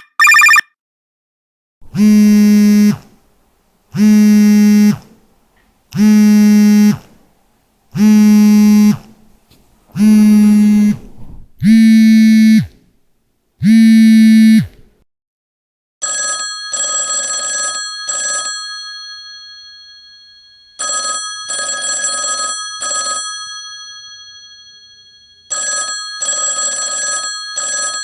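A mobile phone vibration alert buzzes seven times, about a second each, two seconds apart. About halfway through, a classic telephone bell ringtone takes over: bursts of bell ringing about every five seconds, the tones ringing on and fading between bursts.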